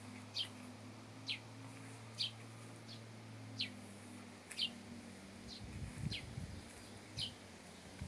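A small songbird calling: short, high chirps that slur downward, repeated about once a second. Faint low rustling comes in after the middle.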